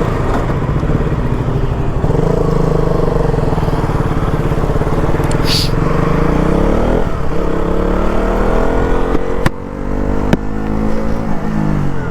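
KTM RC 200's 199.5 cc single-cylinder engine under way: steady at first, then the revs climb, break briefly at a gear change, climb again and drop off near the end.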